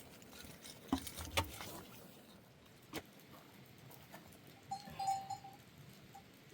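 Goat herd close by: a few sharp knocks and clatters, then a short, steady high-pitched sound about five seconds in, with a brief repeat near the end.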